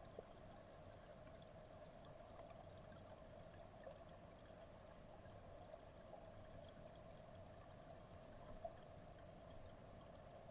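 Faint, steady rush of a mountain stream, with a few soft clicks.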